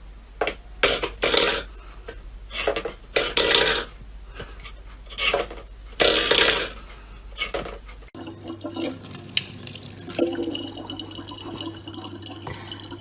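Water splashing in irregular bursts, like water sloshing or pouring in a sink. About eight seconds in it switches abruptly to a steadier running-water hiss over a low hum.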